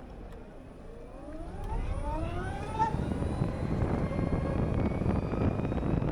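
Harley-Davidson LiveWire electric motorcycle pulling away: its motor whine rises in pitch for about two seconds, then holds steady. Wind noise builds as it gathers speed.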